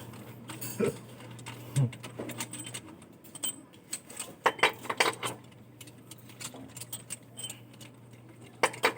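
Scattered light metallic clinks and taps, like small metal parts or tools being handled, loudest in a cluster about four to five seconds in and again near the end, over a steady low hum.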